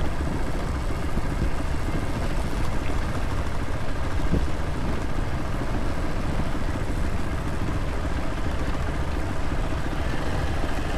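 Steady engine and road noise of a moving vehicle, even throughout with no revving or distinct events.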